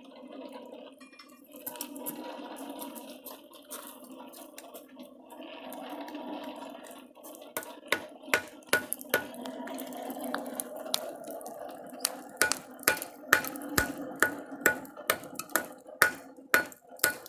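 Hammer blows on steel over an anvil, each with a short metallic ring, cutting bar stock into pieces. The blows begin about halfway through as a few scattered strikes, then quicken to about three a second. Before the blows there is a steady low hum.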